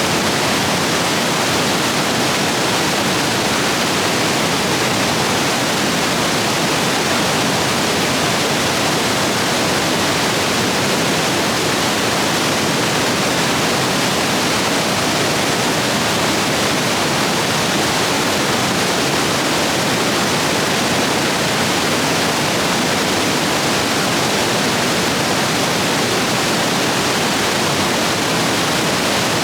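Rapids of a rain-swollen stream rushing steadily, a constant loud hiss with no breaks.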